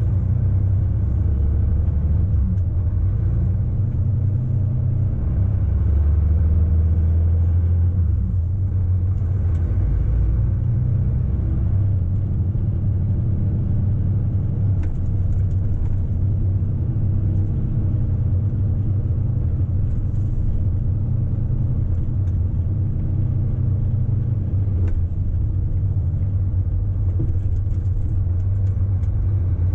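Steady low engine and road rumble heard inside the cab of a 2008 Volvo FH 480 truck while it drives, its 480-horsepower inline-six diesel running under load. There is a slight swell in level a few seconds in.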